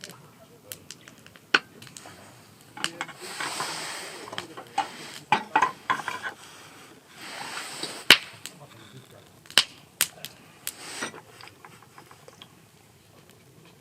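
Wood fire crackling in a campfire stand, with sharp irregular pops, and two stretches of hiss about three and seven seconds in.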